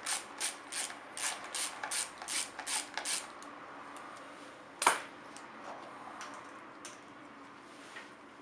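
Ratchet wrench clicking at an even pace, about three clicks a second, as a fastener is undone while the speedometer cable is freed on a Honda CB600F. The clicking stops about three seconds in, and near the middle there is one sharp metallic knock.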